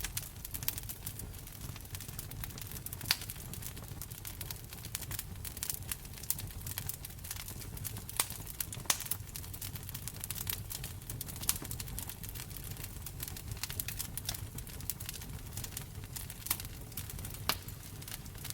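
Wood fire crackling in a fireplace: a constant scatter of small pops with a few sharper snaps, over a low steady rumble.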